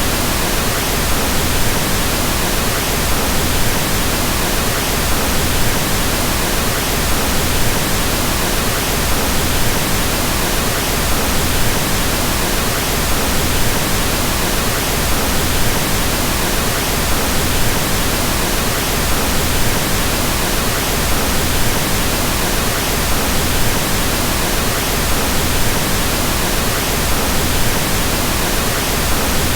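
Pink noise: a steady, unchanging hiss spread over all pitches, with more weight in the low end than white noise.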